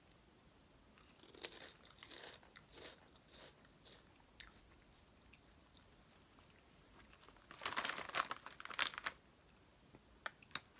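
A person biting and chewing crunchy chile-and-lime wheat snacks (Totis Donitas). There are scattered crunches at first, then a louder spell of crunching about three quarters of the way through.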